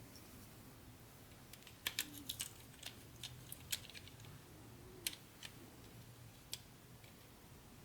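Light, sharp clicks and taps of small hard pieces being handled during an unboxing: a quick cluster about two seconds in, then a few single clicks, over a faint low hum.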